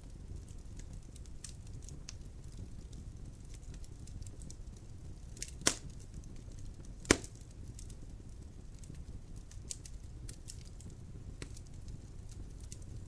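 Wood fire burning in a fireplace: a low steady rumble of flames with scattered small crackles, and two loud sharp pops of wood, the second about a second and a half after the first.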